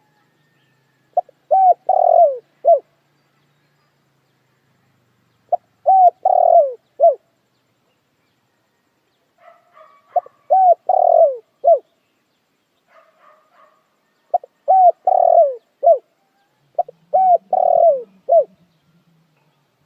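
Spotted dove cooing: five repeated phrases, each a few short coos around one longer, falling coo, a few seconds apart. It is a lure recording for drawing wild doves to a trap. Faint higher chirps from another bird come in around the middle.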